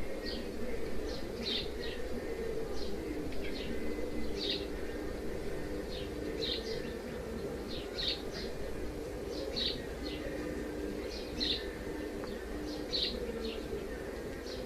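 Small bird chirping repeatedly, short high chirps often in pairs about once a second, over a low hum that comes and goes.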